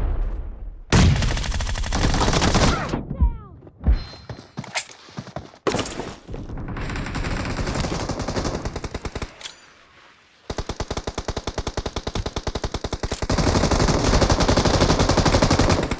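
Automatic gunfire in a shooting video game: a rapid burst about a second in, scattered shots and game sounds in the middle, then a long unbroken stream of rapid fire through the last third.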